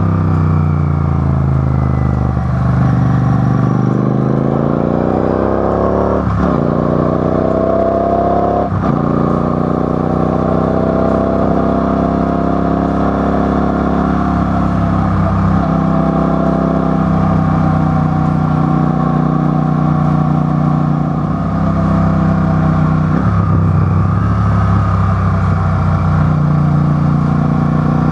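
Car engines running and being revved, the pitch rising and falling slowly, with a couple of sharp cracks about six and nine seconds in.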